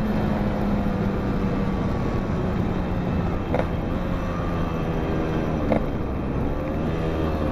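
Yamaha RX-King two-stroke single-cylinder motorcycle engine running under way at a steady speed, its note rising and then falling slightly near the end. Two short clicks are heard along the way.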